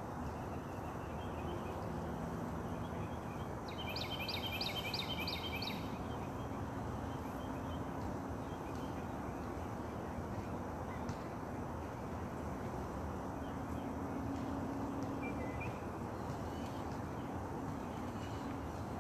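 Steady outdoor background noise, with a bird calling about four seconds in: a quick run of about six high, evenly spaced notes lasting around two seconds.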